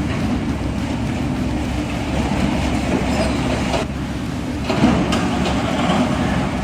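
Heavy machinery working: a steady, rough mechanical rumble with clattering noise, with a brief drop about four seconds in.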